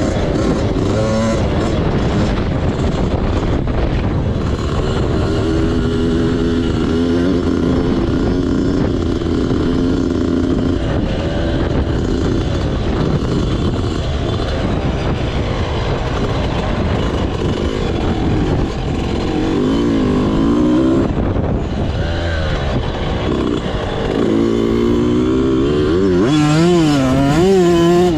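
Motocross bike engine revving, its pitch rising and falling again and again as the throttle opens and closes, over a steady rushing noise.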